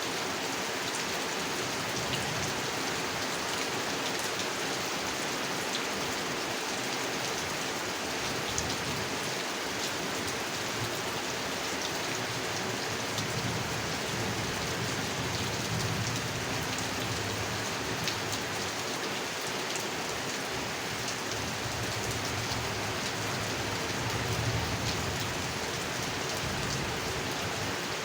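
Steady rain falling on a pond: a dense hiss with many separate drops ticking. A low rumble swells up twice, once around the middle and once near the end.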